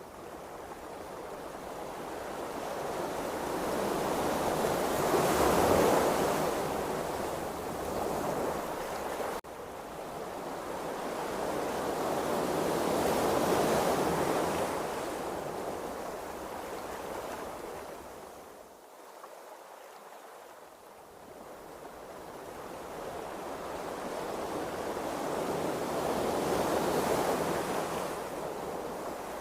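Open-sea waves rushing and washing, swelling and fading in three slow surges, with a brief sharp dropout a little over nine seconds in.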